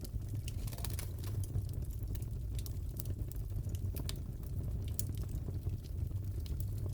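Crackling fireplace: a steady low rumble of burning wood with scattered sharp pops and crackles.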